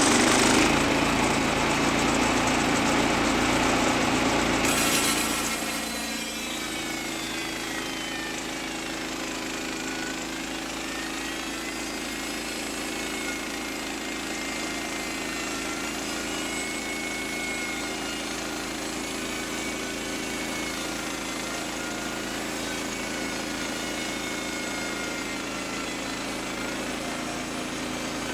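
Portable bandsaw sawmill running with its engine and blade cutting a log. The sound is louder and harsher for about the first six seconds, then drops to a steady drone with a faint wavering whine.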